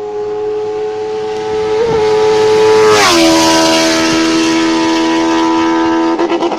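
Benelli TNT 600's inline-four engine, breathing through an SC Project exhaust, running hard at high revs. The pitch drops sharply once about halfway through, then holds steady at the lower note, with a brief stutter near the end.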